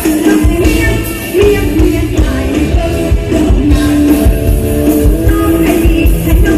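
Live Isan mor lam band music: a wavering sung melody over plucked string instruments and a steady, driving drum and bass beat.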